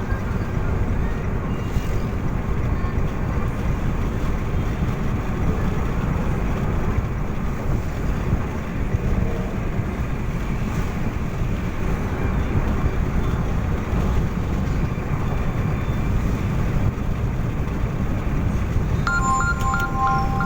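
Steady rumble and wind noise of a moving road vehicle. Near the end there is a brief series of short electronic beeps.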